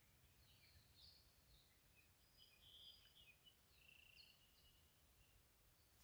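Faint birdsong: a string of short chirps and a few held whistled notes, over a faint low rumble.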